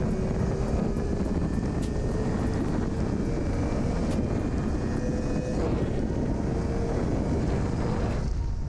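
Yamaha R6's inline-four engine accelerating hard at highway speed. Its pitch climbs steadily, drops briefly at an upshift about five and a half seconds in, then climbs again, under heavy wind rush on the microphone.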